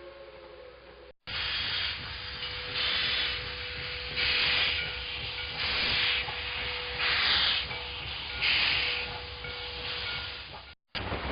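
Steam locomotive hissing steadily, with slow, evenly spaced louder puffs of steam about every second and a half. A faint whistle-like tone fades out just before a short break about a second in.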